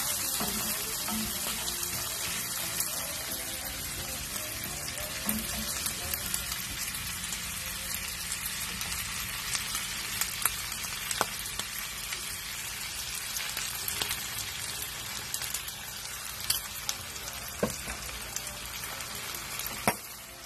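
Chopped pork sisig frying in a hot cast-iron grill pan: a steady sizzling hiss, with a few sharp clicks in the second half.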